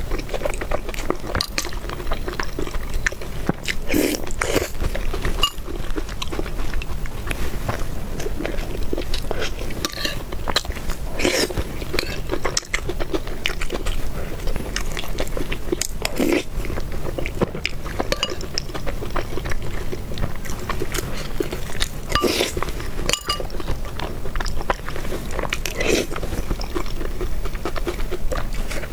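Close-miked chewing and biting while eating noodles and meatballs: steady wet mouth sounds, with louder bursts every four to six seconds.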